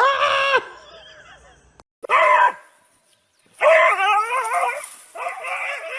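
A dog vocalizing in four pitched barks and yowls. The third call is longer and wavers up and down in pitch.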